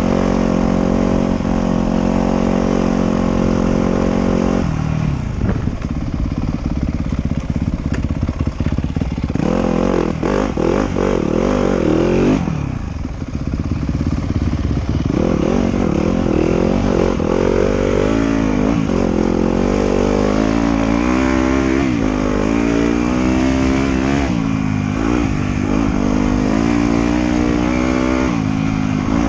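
Motorcycle engine riding on a trail, running at a steady pitch for the first few seconds, then revving up and down again and again as the throttle is opened and closed.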